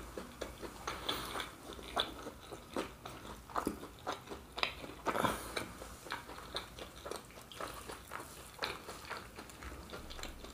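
Close-up mouth sounds of people biting into and chewing fried pastéis (Brazilian fried pastries): irregular crisp crunches from the fried crust, with wet chewing between them.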